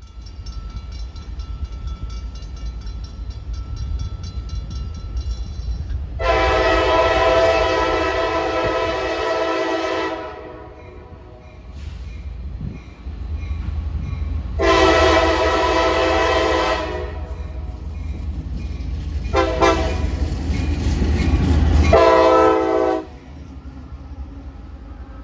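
Diesel locomotive's multi-chime air horn sounding two long blasts, a short one and a final long one, the long-long-short-long signal for a grade crossing. A heavy low rumble from the passing train runs beneath the horn and drops off after the last blast.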